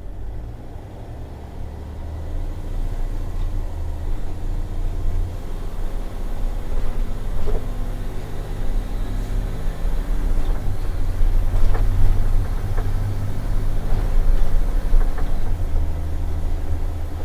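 A 20 ft box truck's engine and road noise as it is driven slowly, a steady low rumble that gets a little louder about two seconds in, with a few faint ticks.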